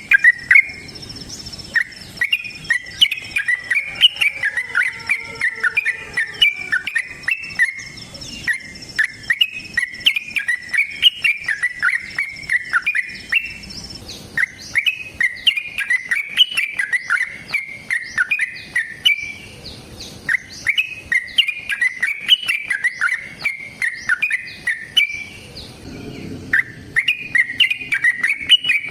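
Yellow-vented bulbul (trucukan) singing long, fast runs of bubbly chattering notes, with brief pauses between phrases. A faint steady high-pitched tone sits behind it and stops about halfway.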